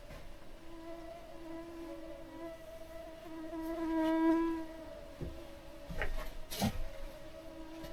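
A flying insect buzzing close to the microphone. Its drone swells to a peak about four seconds in, then fades. A few sharp knocks come near the end.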